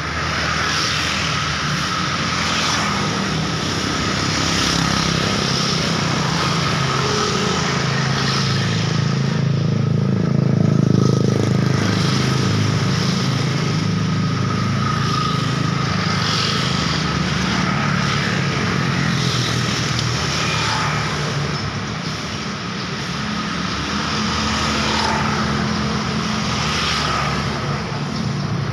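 Steady traffic noise from vehicles passing on a busy road: a continuous mix of engines and tyres that swells about ten seconds in as a louder vehicle goes by, then settles.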